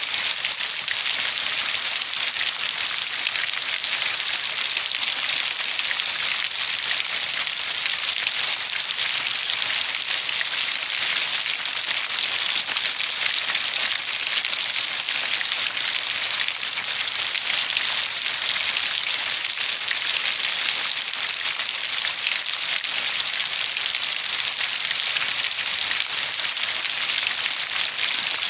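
Steady heavy rainfall: a dense, even hiss of countless drops hitting a surface, with fine ticks of individual drops throughout.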